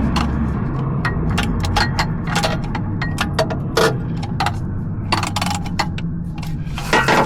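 Metal hand tools clinking and clattering, a socket wrench and extension being handled and fitted, in a string of sharp irregular clicks over a steady low hum.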